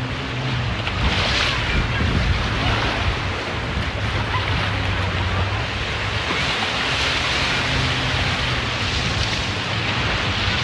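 Surf washing in at the water's edge, with wind buffeting the microphone. The noise swells and eases every few seconds over a faint, steady low hum.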